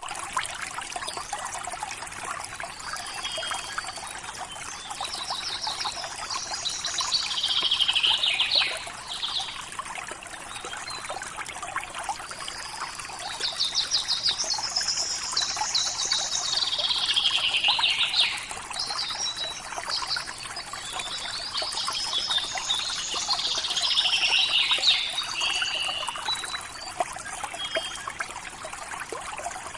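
River water trickling and babbling steadily. Over it a songbird sings three long phrases, each ending in a trill that falls in pitch.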